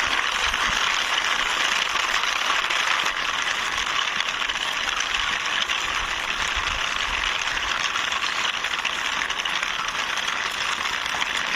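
Small plastic toy drum truck pushed along by hand, its wheels making a steady rolling rattle on the ground.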